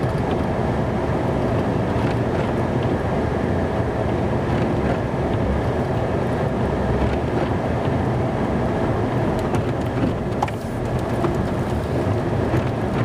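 Snow-plow truck's engine running steadily, heard from inside the cab as it creeps along at low speed.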